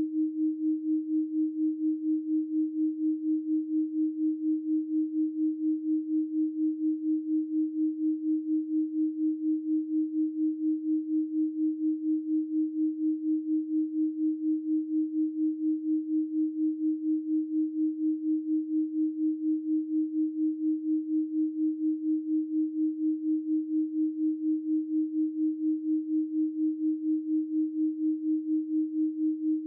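Steady 312 Hz pure sine tone, electronically generated. It holds one unchanging pitch, and its loudness pulses evenly a few times a second.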